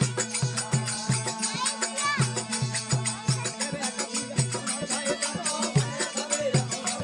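Rajasthani desi bhajan music: a drum beats a steady rhythm about three times a second over a constant drone, with jangling metal percussion and a wavering melody line on top.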